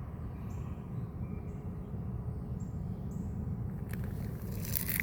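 Outdoor background: a steady low rumble, like wind or distant traffic, with a few faint high chirps.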